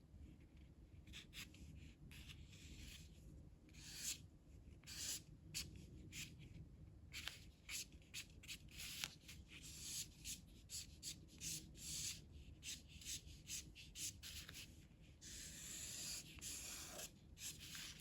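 Faint scratching of a colouring tool on paper in short repeated strokes, about one or two a second, as thin curved lines are drawn. Near the end comes a longer continuous stroke of shading.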